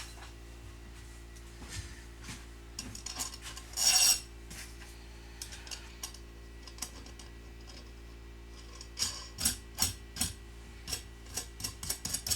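Small steel hardware, washers and a nut on a threaded rod, being handled: light metallic clinks and scraping, a louder clatter about four seconds in, and a run of quick sharp clicks near the end.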